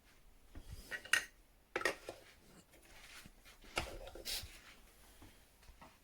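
A few light clicks and knocks of hard objects being handled, in small clusters, with near silence between.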